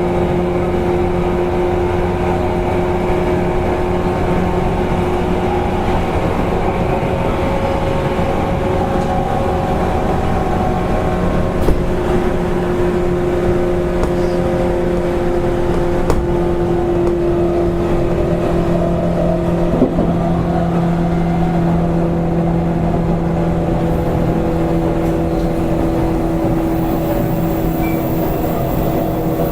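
A JR East 185 series electric train heard from inside motor car MoHa 184, running at a fairly steady speed. The MT54 traction motors and gears give a steady whine of several tones over a constant rumble of wheels on the rails, and three short sharp knocks come partway through.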